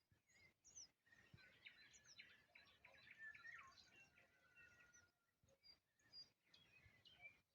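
Nightingale singing: a faint, rapid run of varied whistles, trills and short sweeping notes, densest in the middle and thinning out towards the end.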